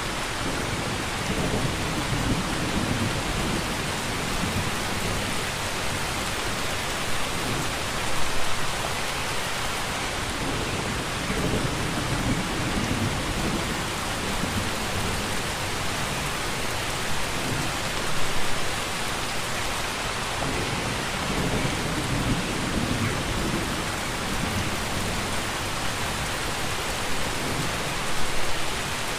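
Steady, heavy rain hissing, with low rumbles of thunder that swell and fade several times. There are brief louder surges about every ten seconds.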